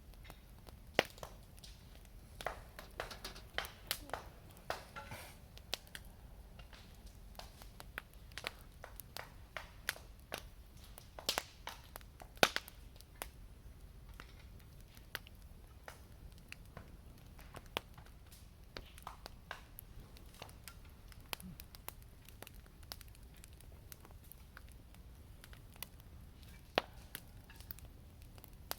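Firewood burning in a campfire, crackling and popping: irregular sharp snaps, a few of them louder, about a second in and around eleven to thirteen seconds in.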